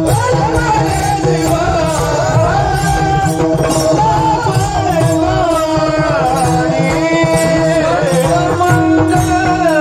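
Marathi Warkari kirtan singing: a solo voice sings a devotional chal with bending ornaments over a steady held drone, with percussion keeping a regular beat.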